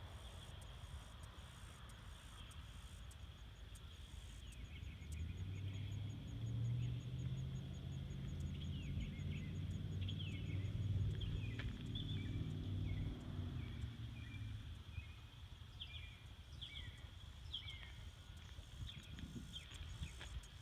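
Outdoor ambience: a steady high-pitched insect chorus with scattered bird chirps. In the middle, a low engine hum grows louder and then fades away, like a vehicle passing.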